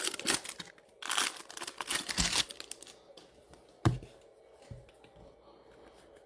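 Foil trading-card pack wrapper being torn open and crinkled, in two rustling bursts, followed by a single knock about four seconds in.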